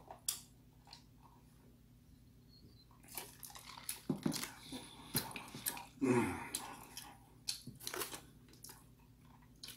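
Close-up eating sounds: irregular wet mouth clicks and soft crunches of chewing, with an occasional swallow, from about three seconds in until shortly before the end.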